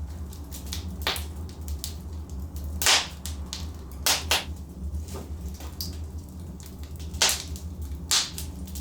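Logs burning in a fireplace: an irregular crackle of sharp pops, a few much louder than the rest, the loudest about three seconds in, over a steady low rumble.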